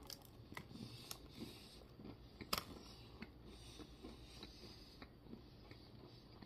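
Faint chewing of a soft peanut butter cookie: scattered small mouth clicks, with one sharper click about two and a half seconds in.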